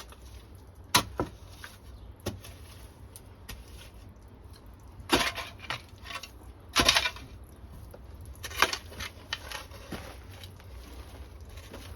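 Irregular knocks, clinks and scrapes of hard objects being handled, a few at a time, with the loudest cluster about seven seconds in.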